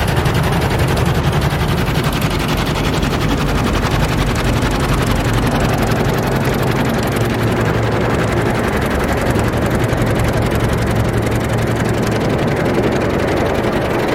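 Rotating soft-foam brushes of a D&S IQ soft-touch car wash slapping rapidly and steadily against the car body, with water spray and the wash machinery humming, heard from inside the car.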